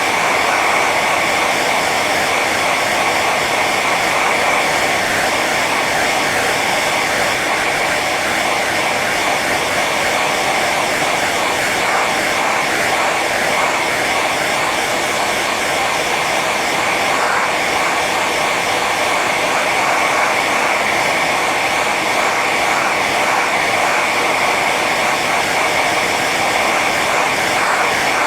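Hair dryer blowing steadily on its high setting: an even rush of air with a steady high whine from the fan motor.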